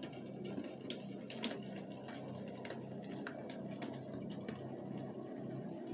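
00 gauge model train running on the layout: a steady low motor hum with scattered light clicks of wheels over the rail joints and points.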